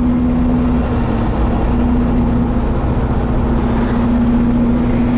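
1968 Ford F250's 360 V8 engine running steadily while the truck drives along, heard from inside the cab as an even drone with a constant hum and road rumble.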